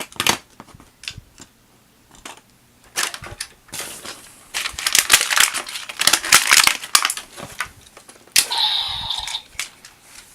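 Plastic toy pieces and packaging being handled: a run of sharp plastic clicks and crinkling rustles, busiest in the middle. About eight seconds in, a short buzzing electronic tone sounds for about a second.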